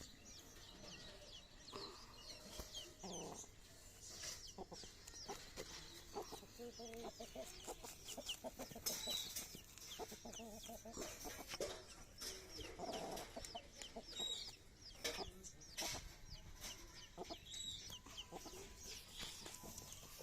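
Chickens clucking, mixed with many short high chirps.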